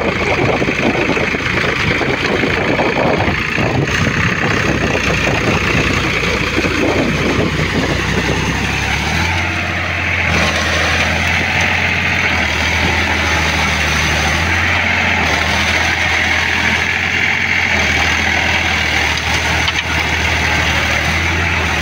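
Tractor diesel engine running hard while stuck. For the first nine seconds or so the sound is rough and uneven, then it settles into a steady drone.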